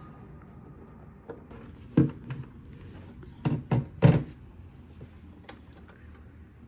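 Refrigerator being handled during an inspection: a knock about two seconds in, then three thumps in quick succession just before the four-second mark, the last the loudest, typical of the fridge door or its inner parts being moved and knocked.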